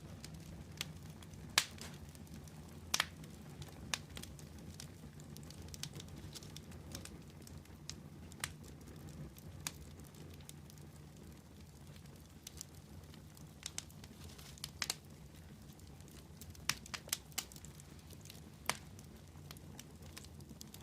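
Wood fire burning with a steady low rumble and irregular sharp crackles and pops, some in quick clusters.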